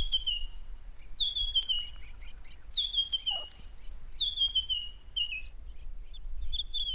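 A bird singing a short descending phrase of quick stepped notes, repeated about every second and a half.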